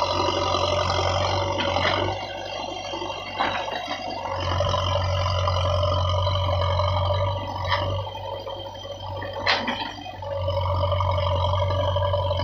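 JCB 3DX backhoe loader's diesel engine running, its deep hum rising and falling back in stretches as the machine works. A few sharp knocks, like the bucket or arm clanking, come through on top.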